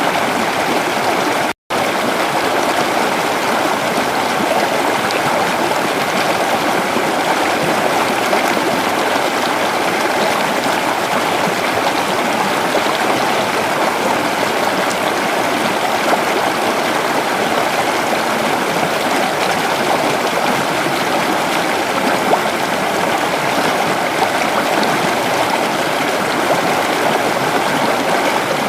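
Creek water flowing steadily over stones, a continuous rushing and babbling. It cuts out for an instant about a second and a half in.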